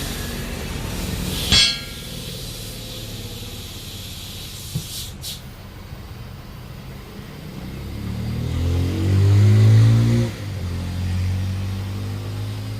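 Vehicle engine running at a steady idle, revving up about two-thirds of the way through to its loudest point and dropping back sharply. A short hiss of air sounds near the start.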